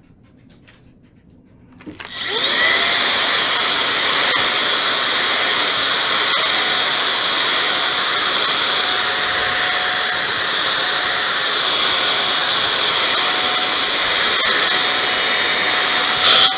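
Holife cordless stick vacuum with its brushless motor, fitted with the brush-tipped crevice tool. It switches on about two seconds in with a quick rising whine as the motor spins up, then runs steadily with a high, loud whine and rushing air.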